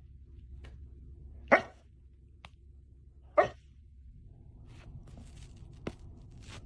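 A dog barking twice, about two seconds apart, with a few faint clicks and a low steady hum.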